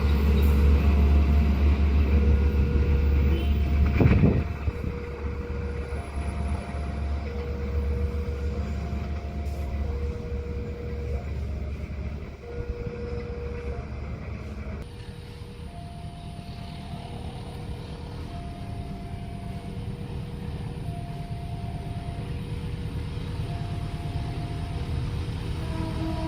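Railway level crossing warning alarm sounding: two electronic tones taking turns, a lower and a higher one, repeating steadily. A heavy low rumble of a passing vehicle underlies the first four seconds, then fades to a quieter hum.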